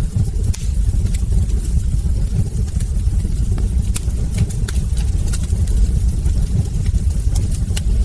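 Wood fire burning in a hearth: frequent small, irregular crackles and pops from the logs over a steady low rumble of the burning fire.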